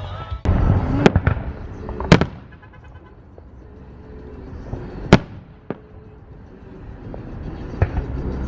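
Fireworks going off: about six sharp bangs at irregular intervals, the loudest about two seconds in and followed by a short crackle, with a quieter lull between about three and five seconds.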